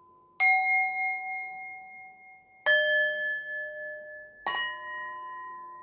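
Three struck metal bells, each hit once at a different pitch and left to ring out slowly, over a faint steady ringing tone.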